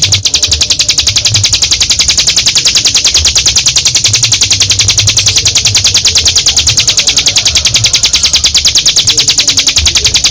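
Ciblek gunung, a prinia, singing a long unbroken rattling trill of rapid high notes: the 'ngebren' song prized for training other songbirds.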